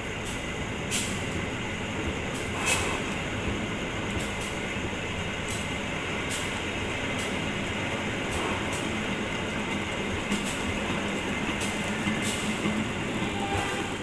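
Inside a passenger coach of a train: the steady running rumble of the coaches, with a short click roughly every second.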